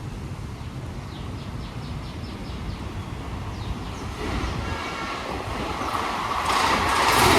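Approaching passenger train (the Hutatma Express with LHB coaches). A low rumble grows steadily louder, with a brief run of faint rapid high ticks about a second in and a rising wash of wheel and rail noise over the last few seconds as the train nears.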